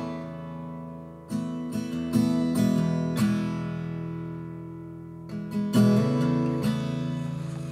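Guitar music: strummed chords struck in quick groups and left to ring and fade, with one chord held ringing through the middle.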